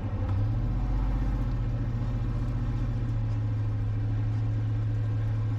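Vehicle engine running steadily under way, with a strong, even low hum.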